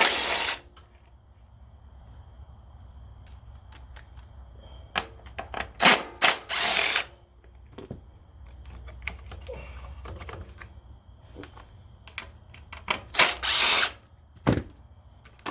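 Cordless drill driver with an 8 mm socket spinning out screws from a generator's air filter cover, in three short runs about six seconds apart. Small clicks of handling screws and parts come between the runs.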